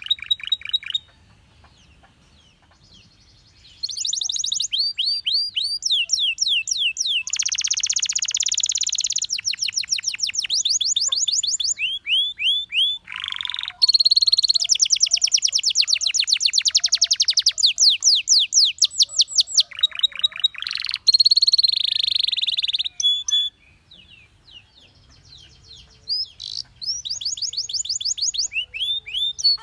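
Domestic canary singing in long, fast trills of rapidly repeated high notes, changing from one trill to the next. It pauses twice: about a second in for about three seconds, and again about two-thirds of the way through.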